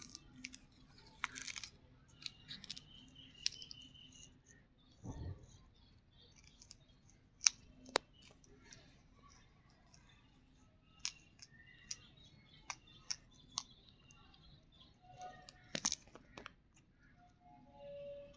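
Parrots biting and tearing at sugarcane with their beaks: scattered sharp cracks and snaps, with a few short chirps in between.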